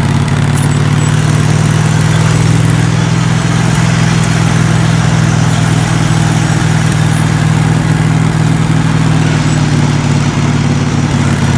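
Modified riding lawn mower's engine running at a steady speed as it is ridden along a trail, a loud, even low hum.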